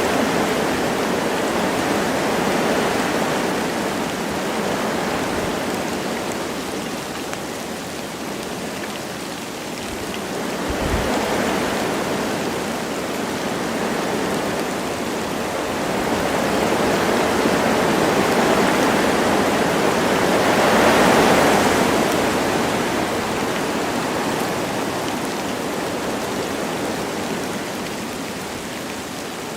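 Wind blowing through forest trees with light rain, a steady rush that swells in gusts and eases again, strongest about two-thirds of the way through.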